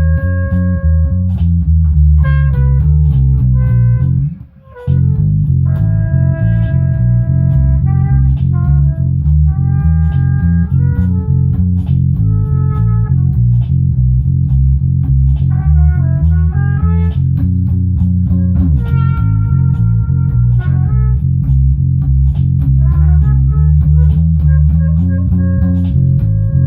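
Live band jamming: guitar playing held melodic notes over a steady bass line. The sound drops out briefly about four and a half seconds in.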